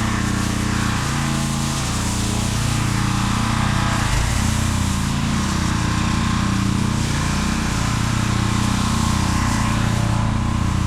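Gas engine of a pressure washer running steadily at working speed, with the hiss of the spray wand putting down a soap pre-treatment through a downstream chemical injector.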